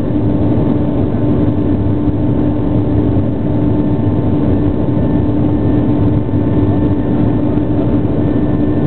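Airliner's jet engines during takeoff making a loud, steady drone with a fixed hum running through it.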